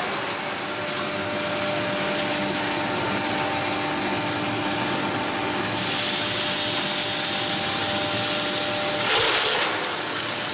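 Wood-processing machine running steadily: a continuous noise with a faint whine in it, and a brief louder surge about nine seconds in.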